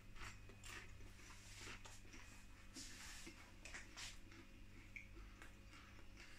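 Near silence with faint chewing: soft, irregular clicks and mouth sounds of a bite of cheeseburger spring roll being eaten.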